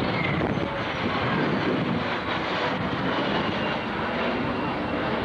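Jet fighter's engine noise from a display pass: a steady rushing noise with a faint high whine above it.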